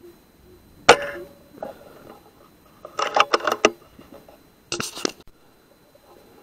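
A single sharp shot from a Weihrauch HW100 pre-charged air rifle about a second in, with a brief ring after it. Two bursts of clicking and clatter follow, about two and four seconds later.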